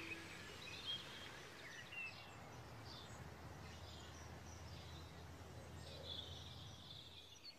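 Faint birds chirping here and there over a steady low outdoor rumble.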